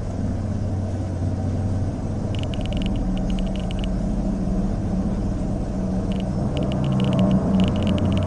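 A low, steady droning rumble, with short clusters of rapid clicking, about two to four seconds in and again from about six seconds in.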